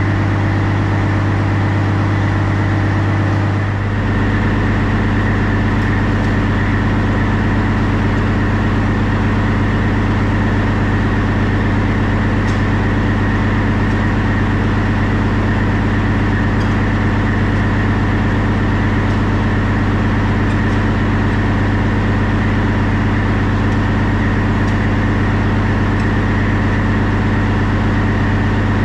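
Semi truck's diesel engine running steadily, with a deep hum; the engine note shifts about four seconds in and then holds even.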